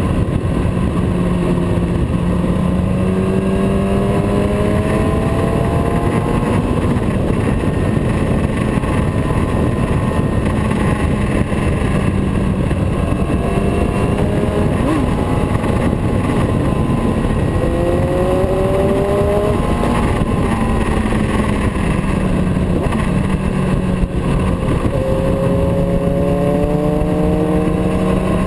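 Motorcycle engine running under way, climbing in pitch as it accelerates about three times, under a constant loud rushing noise.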